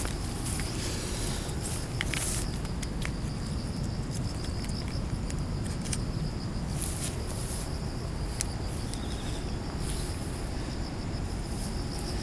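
Insects chirping steadily in a high, even band over a constant low rumble of wind on the microphone, with a few brief rustles scattered through.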